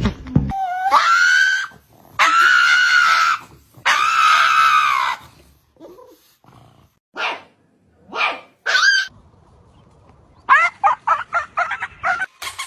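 A dog vocalising: a rising call, then two long drawn-out calls of about a second each, a few short yelps, and near the end a quick run of short barks.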